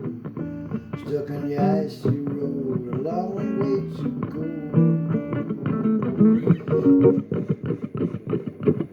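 Blues guitar instrumental break: a run of plucked notes, some of them bent, with no singing.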